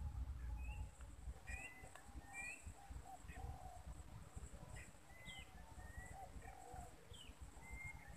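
Several birds calling faintly: short high chirps and slurred whistles, mixed with repeated lower calls, over a low rumble.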